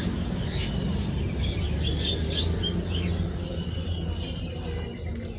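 Caged birds chirping, a quick run of short high chirps about one and a half to three seconds in, over a steady low hum.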